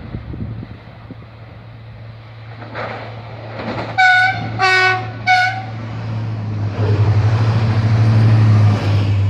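SNCF TER regional train sounding its horn in three short blasts about four seconds in, then passing close with a rhythmic clatter of wheels over the points that grows loudest near the end.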